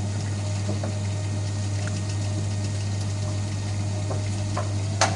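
Washing machine drain pump running with a steady hum as water is pumped out ahead of the spin, with a sharp click near the end.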